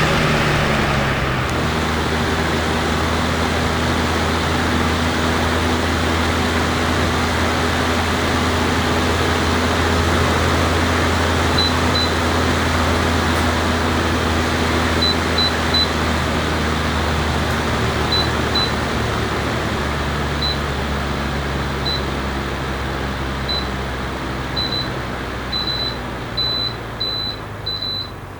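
Electric fan running: a steady rush of air over a low motor hum. From about halfway through there are short high beeps, coming faster near the end as the fan's sound drops away.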